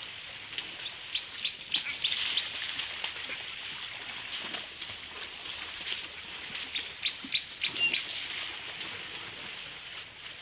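Small birds chirping in quick clusters, about two seconds in and again later, over a steady outdoor hiss.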